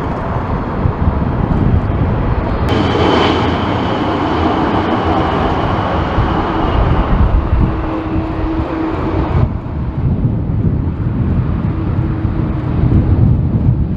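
Boeing 747 jet engines running loudly as the jumbo jet flies past on its landing approach. A higher hiss with a steady whine sets in abruptly about three seconds in and drops away just as abruptly about six seconds later.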